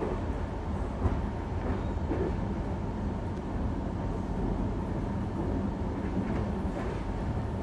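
A moving train: steady, even running noise, with one small click about a second in.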